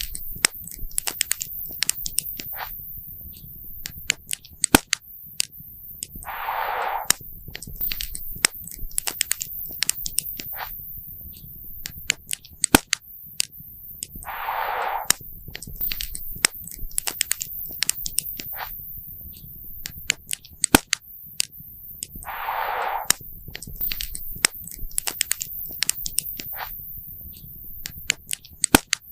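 Wood campfire crackling and popping in quick, irregular snaps. A brief hiss of about a second comes back roughly every eight seconds.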